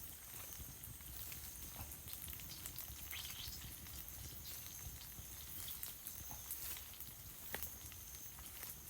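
Wood campfire crackling with scattered irregular pops and snaps, over a steady high-pitched insect drone.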